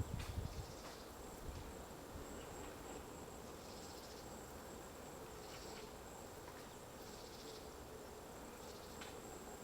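A few sharp knocks of a white-backed woodpecker's bill chipping at its nest hole in the tree: one just after the start, one about a second in, one near the end. Between them is a faint steady high whine and soft outdoor hiss.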